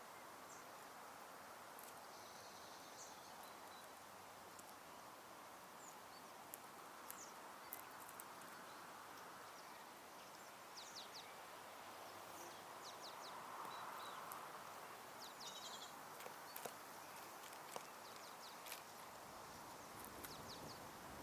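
Faint garden ambience: a steady soft hiss with scattered short, high bird chirps and light ticks, more frequent in the second half.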